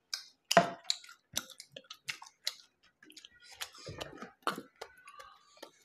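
Eating noises: chewing with small wet mouth clicks and lip smacks, and a louder gulp from a glass of water about half a second in.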